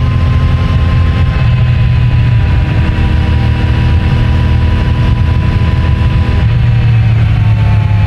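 CFMOTO 450MT's parallel-twin engine and stock exhaust running under way at a steady cruise, its note sinking slowly and a little faster near the end as the bike eases off. Heard from a microphone in the rider's pocket, with road and wind noise.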